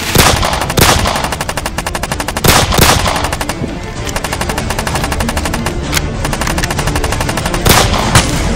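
Rapid, sustained automatic gunfire, with several louder single shots standing out: two near the start, two more a couple of seconds in, and two near the end. Background music plays underneath.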